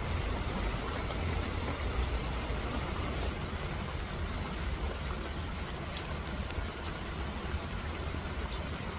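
Steady rain falling as an even hiss, with a low rumble underneath. A couple of separate drops tick about four and six seconds in.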